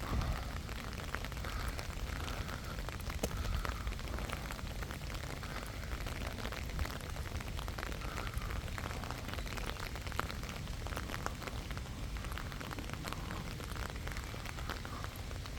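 Steady patter of rain, with many irregular drop ticks over a continuous hiss and a low rumble.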